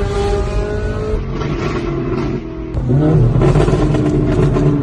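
Ferrari 458's 4.5-litre V8 engine running under way. Its pitch drops a little before three seconds in, then climbs and grows louder as the car accelerates.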